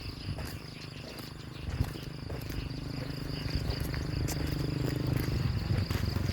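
Crickets chirring steadily at a high pitch, while an engine's low hum grows louder toward the end.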